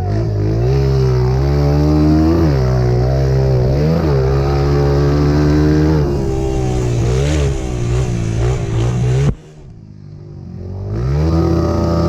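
Dirt bike engine revving and easing off as it is ridden, its pitch dipping and climbing again every second or two. About nine seconds in the sound drops away suddenly, and near the end an engine climbs in pitch again.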